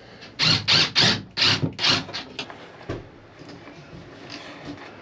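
A run of about six quick scraping strokes in the first two seconds, then a few fainter ones.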